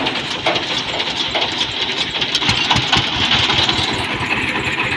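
A motor running steadily, with irregular low knocks throughout.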